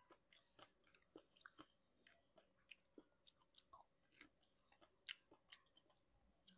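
Faint, close-miked chewing and biting of fresh strawberries: irregular wet mouth clicks and smacks, several a second.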